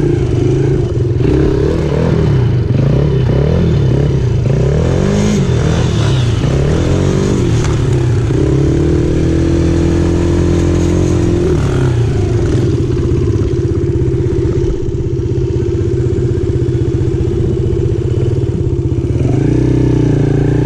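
Dirt bike engine being ridden hard: it revs up and drops back several times as the rider works the throttle and gears, then holds a steady pitch for about ten seconds before revving up again near the end.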